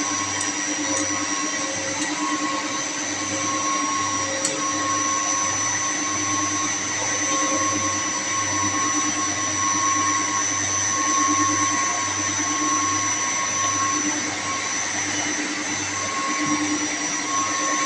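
Electric-motor-driven chilled water pump running steadily, a constant whine over a low hum that swells and fades slightly.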